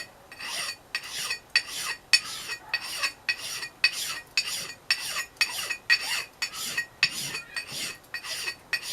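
Quick, even back-and-forth abrasive strokes across the steel of an old Jersey-pattern axe head, about three a second, each with a faint metallic ring from the head, smoothing a rough spot on the bit.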